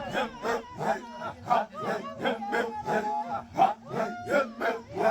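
Birds calling in a noisy, chattering run of overlapping harsh notes, about three a second, with a faint steady hum underneath.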